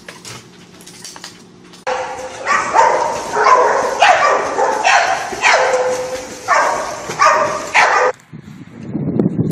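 A dog barking repeatedly: about eight loud barks, each dropping in pitch. They start about two seconds in and stop shortly before the end, where a low noise takes over.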